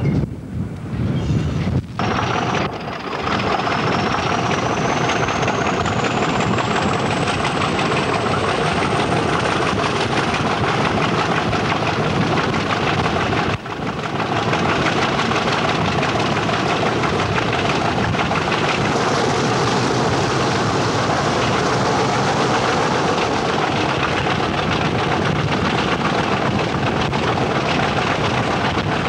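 Loco-hauled train running along the line, heard from an open coach window with wind rushing over the microphone: a steady roar of wind and rail noise, with a high whine rising in pitch over the first several seconds. It opens with a couple of seconds of train noise heard at trackside.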